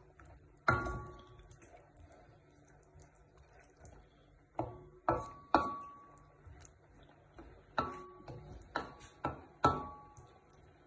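A metal utensil knocking against a cooking pot, about eight sharp strikes with a short ringing tone after each, some in quick pairs.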